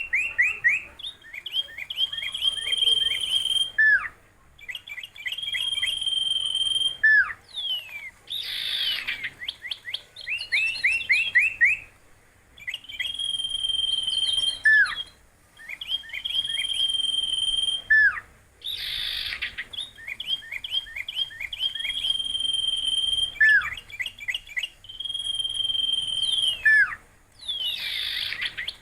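Songbird singing a repeating song: runs of quick high chirps, a held high whistle and a falling whistle, phrase after phrase with short pauses between. Roughly every ten seconds a louder, harsher burst of call breaks in.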